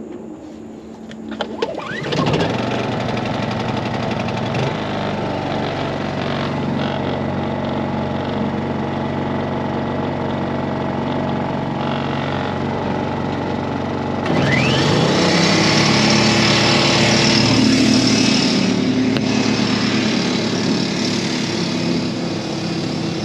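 A small portable generator engine starts about two seconds in and runs steadily. About fourteen seconds in, a rising whine joins it and the running grows louder and fuller, as when the air compressor it powers kicks on and loads it.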